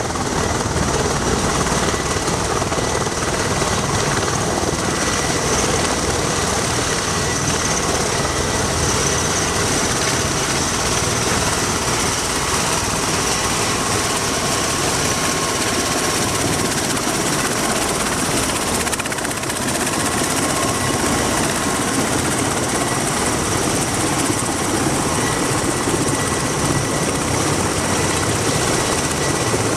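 MV-22B Osprey tiltrotor running, its proprotors and twin turboshaft engines making a loud steady noise with a thin high whine over it. The noise dips briefly about two-thirds of the way through.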